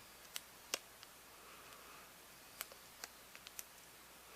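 Faint, sharp little clicks and ticks, about eight scattered through, with the loudest under a second in: small hand-work sounds of splicing a broken VHS tape.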